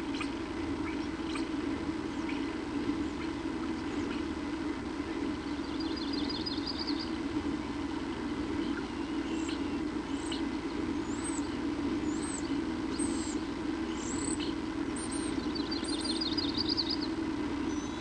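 Small birds chirping over a steady low hum. A quick trill of repeated notes comes about five seconds in and again near the end, with short, sharp, high falling call notes in between.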